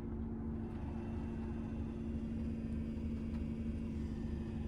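Heater blower fan of a 2023 Vauxhall Vivaro van running, with a steady buzzing tone from the fan motor sitting over the rush of air. It is an electrical noise that shouldn't be there, which the owner takes for a fault in the blower motor.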